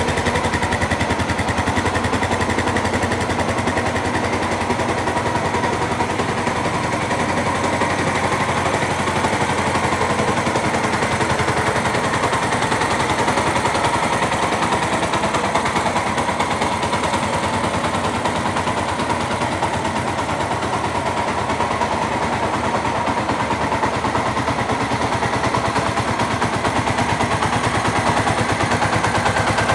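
Suzuki GZ250's air-cooled single-cylinder four-stroke engine running steadily, its exhaust a rapid, even train of pulses.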